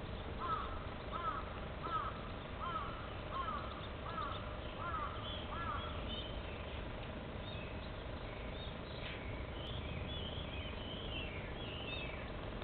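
A bird calls in a steady series of about eight arching notes during the first six seconds, then smaller birds chirp higher and more irregularly, over a steady low outdoor rumble.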